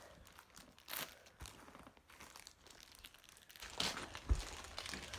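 Packaging crinkling and tearing in bursts as squishy toys are unwrapped, busier in the last second or so, with a dull thump near the end.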